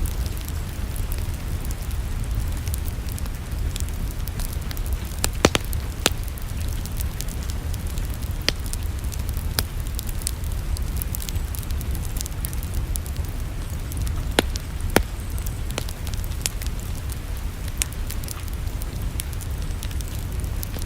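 Wood fire crackling, with irregular sharp pops and snaps, a few louder ones about five and fourteen seconds in, over a steady low rumble.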